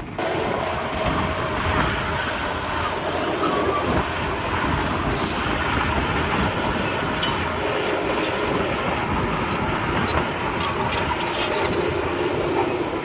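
Crawler bulldozer working: a steady diesel engine under a continuous clatter of steel tracks, with scattered metallic clanks.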